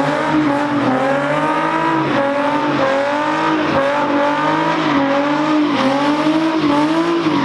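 A car engine held at high revs, its pitch dipping and climbing back again about once a second, as the throttle is worked during drifting.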